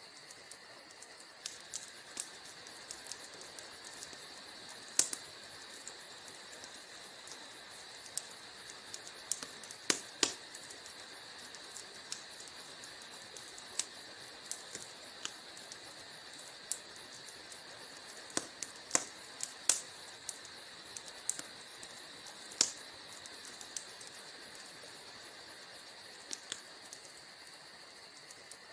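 Wood fire crackling in a fireplace: a steady high hiss with irregular sharp pops and snaps from the burning logs, a few of them much louder than the rest.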